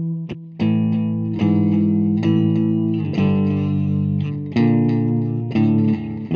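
Electric guitar played through a Donner MultiPad-100 multi-effects processor with delay switched on: a run of ringing chords, changing about once a second.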